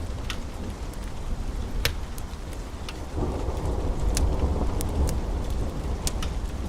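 Steady rain with low rolling thunder that swells about three seconds in, and a wood fire's sharp crackles and pops scattered over it, about five in all.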